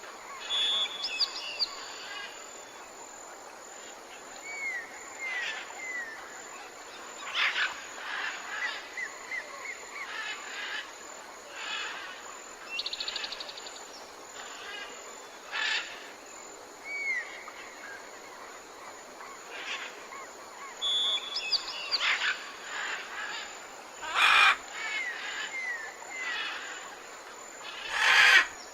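Several wild birds calling and singing: many short chirps and quick slurred notes, a fast trill about halfway through, and two louder calls near the end, over a steady background hiss.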